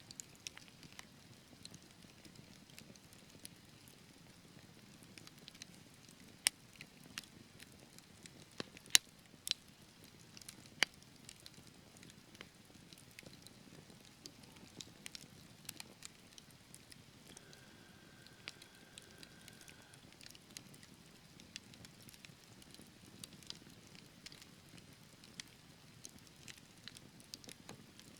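Wood fire crackling in a fireplace: a soft low flame rush with scattered sharp pops and snaps, the loudest few about a third of the way in. A faint steady high whistle lasts a couple of seconds past the middle.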